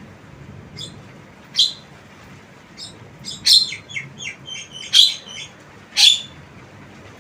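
Javan myna calling: a series of short, sharp, squeaky chirps and whistled notes, sparse at first and packed closer in the middle, with loud single cries about five and six seconds in.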